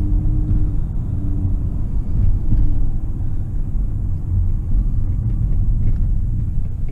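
Van driving, heard from inside the cabin: a steady low rumble of engine and road noise.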